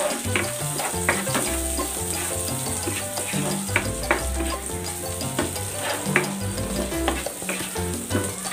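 Onions and garlic sizzling as they sauté in olive oil and butter in a nonstick pan, with a plastic spatula stirring and scraping across the pan in sharp strokes every second or so. Background music plays underneath.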